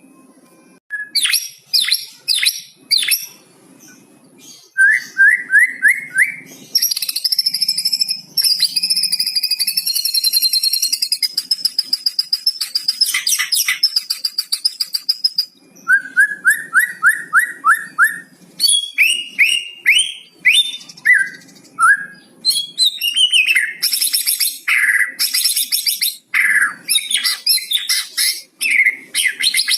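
White-rumped shama (murai batu) singing a long, varied song with cucak cungkok song mimicked into it. Runs of five or six quick rising whistles come around five seconds in and again past the middle. A long, high, buzzy trill runs for about eight seconds, and fast chatter with sharp whistles fills the rest.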